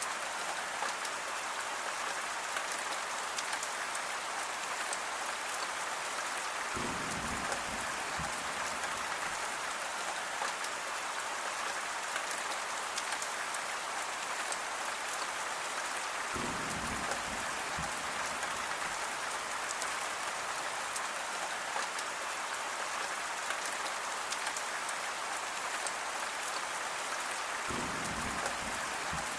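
Steady rain falling, an even hiss of many drops. Three times, about ten seconds apart, a deeper, lower sound joins for a second or two.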